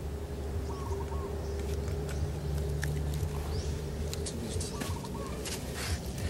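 Short bird calls repeating every couple of seconds over a steady low hum, with scattered sharp clicks in the second half.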